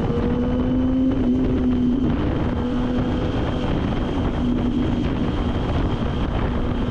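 Motorcycle engine running at a steady cruising speed, with heavy wind noise on the microphone.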